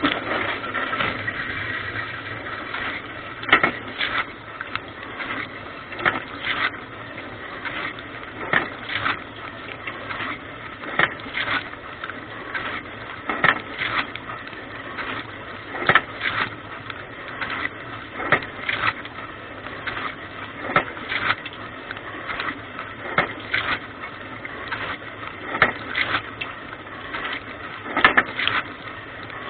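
Dishwasher wash cycle heard from inside the tub: water jets spraying and splashing steadily, with sharper splashes about every two seconds, muffled.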